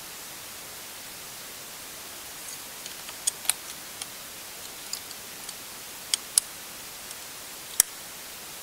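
Steady background hiss with a few sharp, light clicks scattered through it, some in pairs, from a small screwdriver and screws being handled on a laptop's case.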